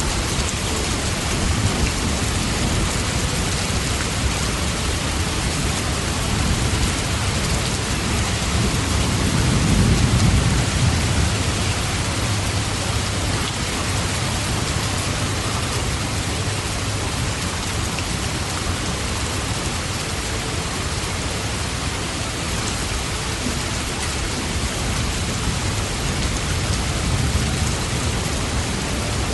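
Steady rain falling, with a low thunder rumble that swells and fades about a third of the way in.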